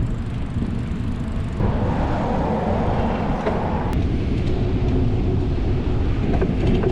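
Steady low outdoor rumble of wind on the microphone and traffic, growing louder and fuller for a couple of seconds from about one and a half seconds in.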